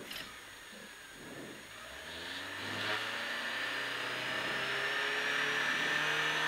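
Citroën AX GT rally car's four-cylinder engine, heard from inside the cabin, held on the throttle with the car stationary at the stage start. It is quiet at first; from about two seconds in the revs climb slowly and are held raised, getting steadily louder, ready for the launch.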